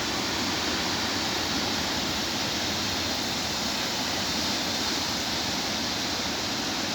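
Swollen stream of rain runoff rushing steadily toward the sea.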